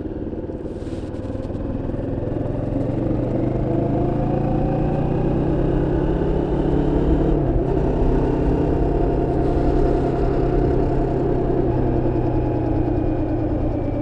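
Moto Morini X-Cape 649's parallel-twin engine running on the move, its pitch climbing, with a short dip about seven seconds in before it climbs again. The engine is in break-in.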